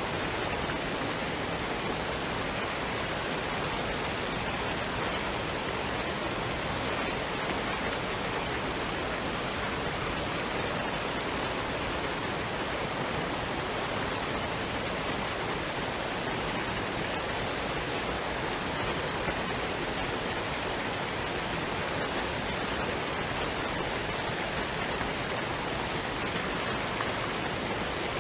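Waterfall and stream water rushing in a steady, unbroken noise.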